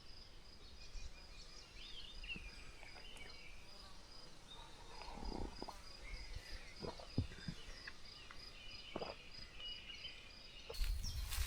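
Faint forest ambience: an insect chirping in a steady, even high-pitched pulse that stops about three-quarters of the way through. A few short bird chirps come near the start, and a few soft knocks come in the middle.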